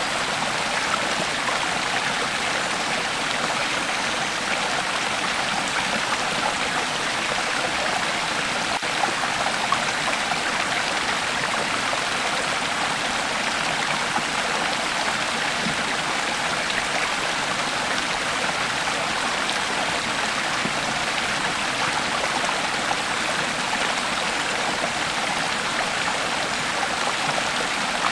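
Creek water flowing over stones, a steady rushing and babbling.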